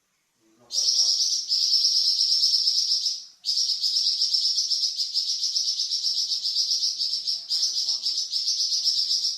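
Flamboyan songbird singing long, high, rapid rattling trills (the "nyecret" prized for training other birds), in three long stretches broken by brief pauses, after a short silence at the start.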